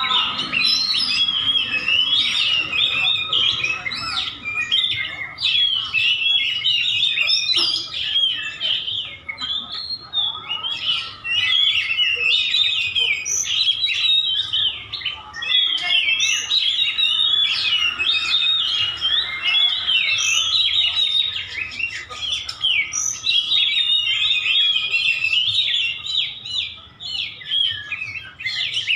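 White-breasted oriental magpie-robins (kacer dada putih) singing without pause: rapid, varied chirps and whistles that overlap densely.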